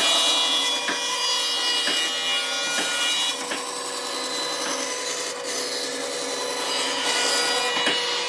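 A tool sawing or abrading wood: a continuous rasping under a steady whine. There are faint knocks about once a second in the first three seconds.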